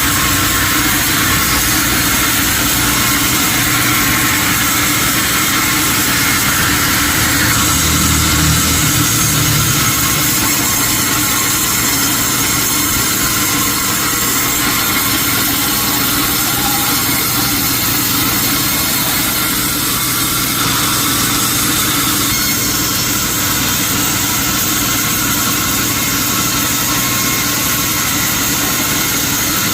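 Sawmill machinery running steadily, a constant engine-like hum with a strong hiss, swelling briefly in the low end about eight seconds in.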